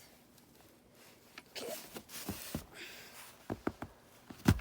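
Scattered clicks and knocks of a gun being handled while someone strains to cock it, with a sharper thump near the end.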